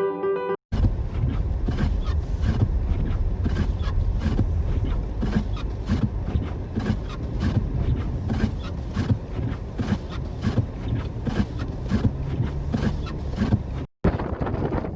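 Strong blizzard wind buffeting the microphone: a loud, dense low rumble with frequent short crackling hits. It starts abruptly just after the opening and cuts off suddenly near the end.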